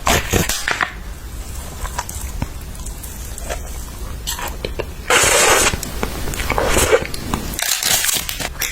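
Close-up eating sounds: biting and chewing, with many sharp crunchy clicks and louder noisy bursts about five seconds in and again near seven seconds.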